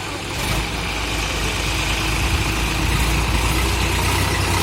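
Heavy diesel machine engine running, getting louder about half a second in and then holding steady, with a faint high whine over the low engine note.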